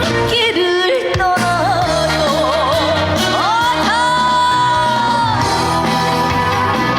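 A female trot singer singing live over amplified backing music. She sings quick runs early on, then holds one long note about halfway through.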